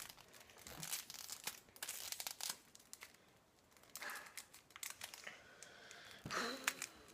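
Chewing-gum packaging being handled and opened: paper and foil wrappers crinkling and tearing in short rustles and clicks.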